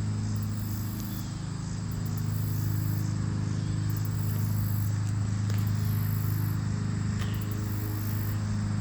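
Insects trilling in very high-pitched pulses, about one burst every second and a half, over a steady low hum.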